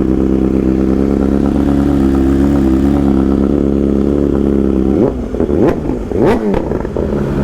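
Superbike engine idling steadily, then revved in about three quick throttle blips from about five seconds in before settling back to idle.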